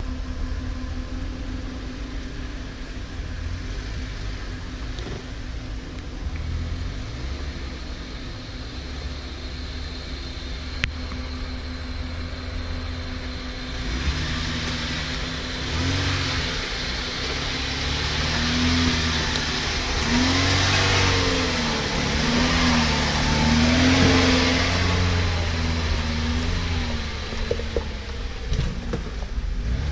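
Off-road 4x4's engine running steadily, then revved up and down again and again through the second half, with a hiss that swells along with the revs.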